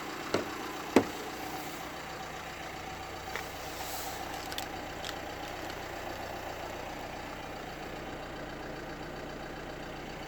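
The Nissan NV200's 1.5 diesel engine idling steadily, with two sharp knocks in the first second.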